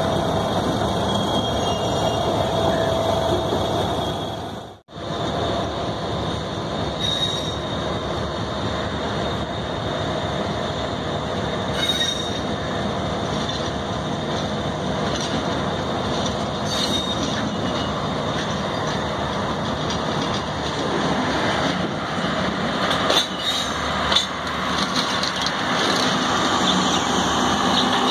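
Passenger train coaches rolling slowly behind a shunting locomotive, a steady rumble with a few brief high wheel squeals. Sharp clacks of wheels over rail joints come thick in the last few seconds as the coaches pass close.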